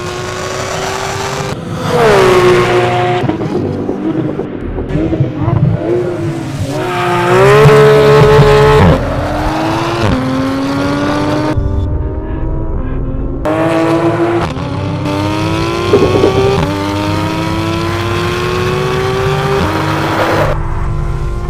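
Porsche 911 GT3 (991) flat-six running through an Akrapovič titanium Evolution exhaust, revving hard with its pitch climbing again and again. Each climb ends in a drop or an abrupt change as the car shifts up or the shot cuts.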